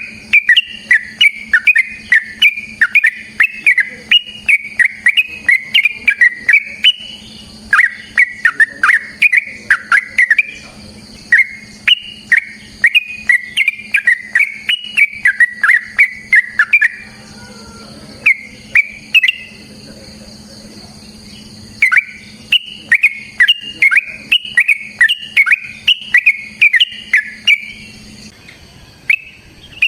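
Yellow-vented bulbul (trucukan) singing a long run of rapid chattering notes, about three or four a second, pausing for a few seconds past the middle before starting up again.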